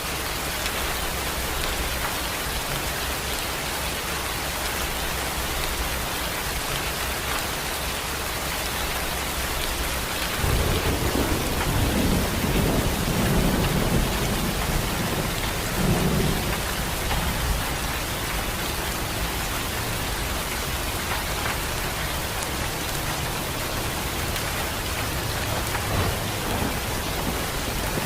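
Steady rain falling. About ten seconds in, a low rumble of thunder rolls in over the rain for several seconds, then dies back down.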